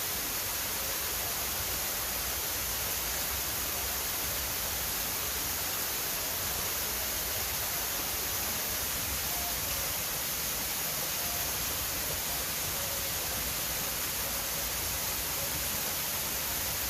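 A steady, even hiss that does not change, brightest in the treble, with a few faint short tones in the background.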